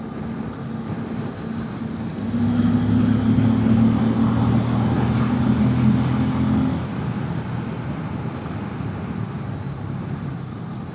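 Bajaj Pulsar N250 motorcycle's single-cylinder engine running steadily at road speed. It grows louder from about two seconds in and eases back after about seven seconds.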